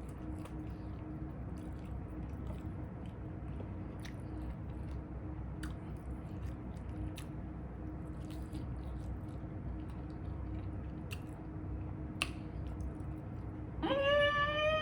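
Close-up mouth sounds of chewing a Flamin' Hot Cheetos-crusted chicken wing dipped in ranch, with a few sharp clicks and crunches scattered through. A brief voiced sound starts near the end.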